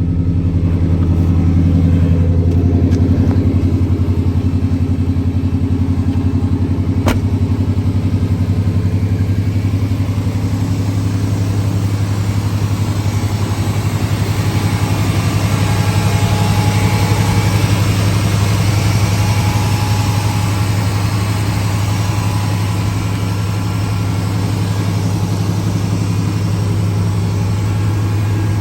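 1993 Chevrolet 1500 pickup's engine idling steadily shortly after a cold start. A single sharp click sounds about seven seconds in.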